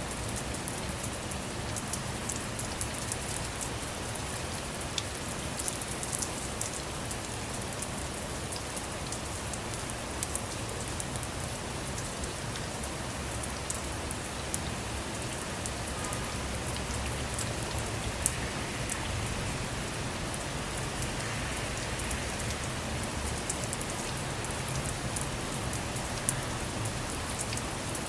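Steady rain on a car, heard from inside, with a constant hiss and many individual drops ticking sharply on the surface.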